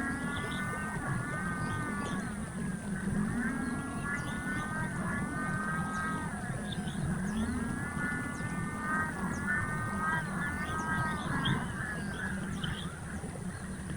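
A bird calling: drawn-out, wavering cries repeated in phrases every second or two.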